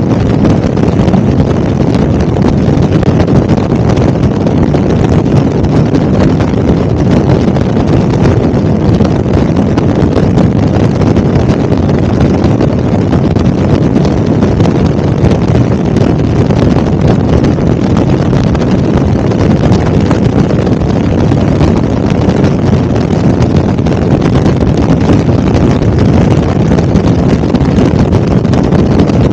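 Helicopter in flight: a loud, steady drone of rotor and engine noise with no change in pitch or level.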